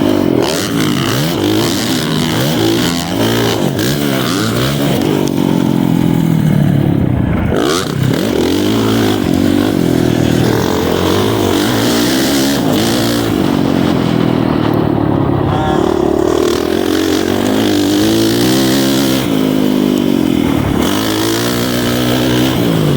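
Four-stroke Honda CRF450R motocross bike engine under way, its pitch repeatedly rising under throttle and dropping off as the rider accelerates, shifts and rolls off around the track.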